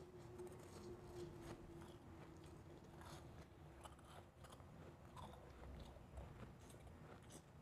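Faint, irregular crunching and chewing of a mouthful of refrozen, powdery blended ice, in many quick crackles.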